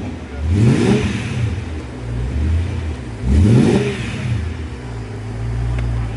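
Car engine revved twice, each rev rising in pitch and dropping back, about half a second in and again about three and a half seconds in, then running at a steady idle rumble.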